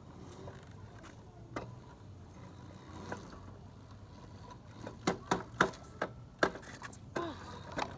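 Small dirt bike engine idling faintly and steadily. A quick series of sharp knocks comes about five to six and a half seconds in.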